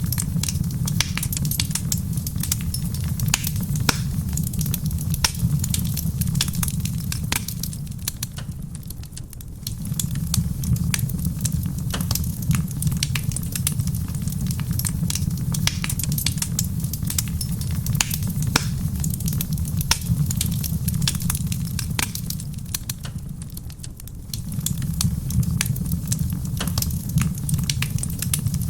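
Wood fire crackling in a stone fireplace, with many sharp pops over a steady low rumble, and soft rain on the roof underneath. The rumble fades briefly twice, about a third of the way in and again near the end.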